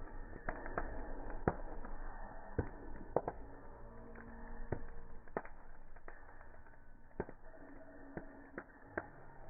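Bonfire burning, the wood crackling with irregular sharp pops, about one or two a second, over a steady low noise of the flames.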